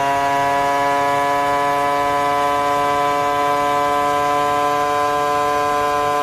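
An engine held at steady high revs, one even, unwavering note.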